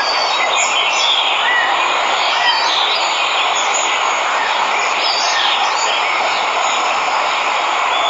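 Steady rush of a waterfall, with birds chirping here and there over it.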